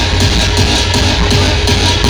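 Loud electronic dance music with heavy bass and a steady beat, blasting from a large DJ sound system.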